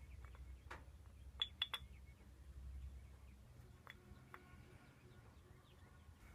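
Faint low hum with a few light, sharp clinks, three close together about a second and a half in and two more near four seconds.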